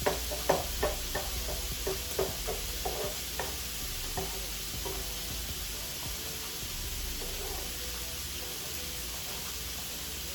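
Food sizzling on a hot griddle, a steady frying hiss, with a spatula scraping and tapping on the griddle surface in quick strokes during the first half that then die away.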